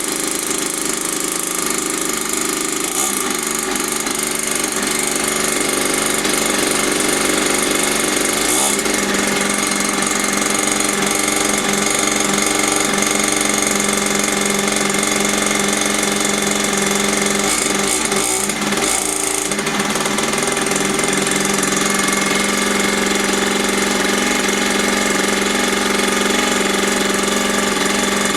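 Small 50cc two-stroke mini dirt bike engine running steadily at idle, just after catching on a restart. Its pitch shifts briefly about a third of the way in and again about two-thirds through.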